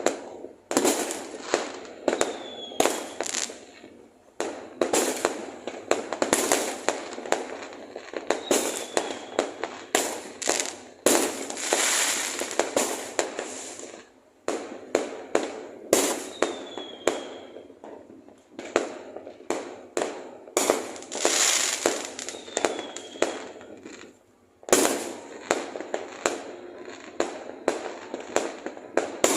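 A fireworks barrage: a dense run of sharp bangs, with stretches of crackling and a few brief falling whistles.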